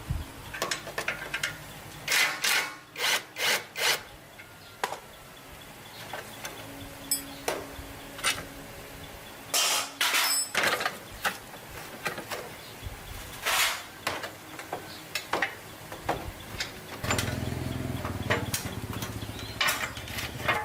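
Hand tool work: a series of irregular scraping and rubbing strokes with sharp knocks in between. A low hum joins in near the end.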